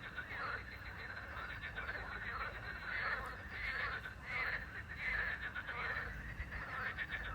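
A chorus of frogs croaking, many rapid rattling calls overlapping without a break.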